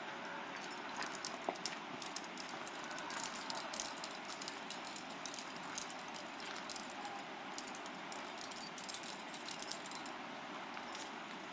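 Metal climbing gear clinking and jangling: carabiners and quickdraws knocking together in short, irregular clicks as the climber moves on the route.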